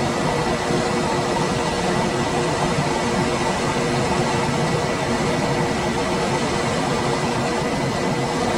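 Room air conditioner running steadily: an even rush of fan air with a faint steady hum and a thin high whine.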